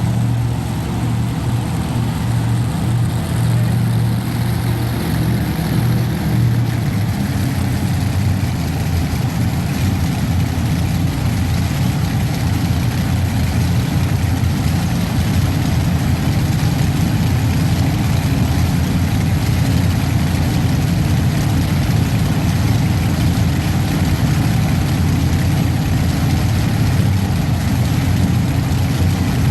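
Modified pulling tractor's engine idling steadily at the starting line, waiting to make its pull; the deep engine sound grows fuller about seven seconds in.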